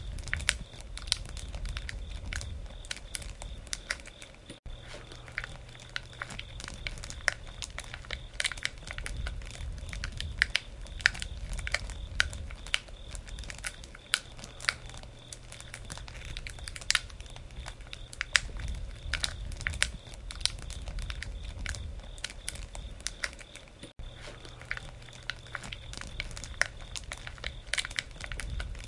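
Wood campfire crackling, with frequent irregular sharp pops over a low steady rumble of the burning fire.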